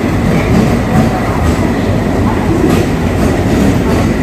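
Diesel-hauled passenger train of LHB coaches rolling past: a loud, steady rumble of wheels on rail, with clicks over the rail joints.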